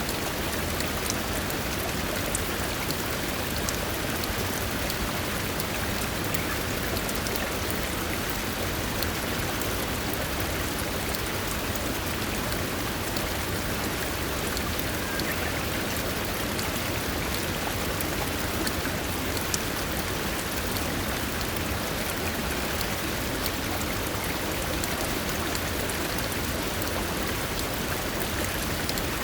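Steady rain falling in forest, an even hiss with many small drop ticks throughout.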